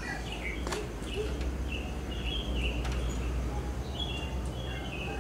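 Small birds chirping repeatedly in short high notes over a steady low rumble, with a couple of faint clicks.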